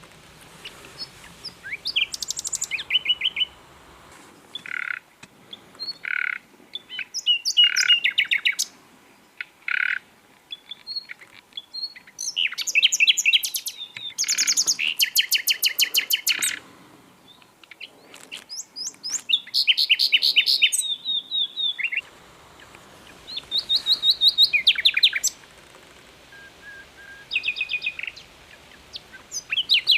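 Common nightingale singing: short phrases of fast repeated notes and trills, one after another with brief pauses between them.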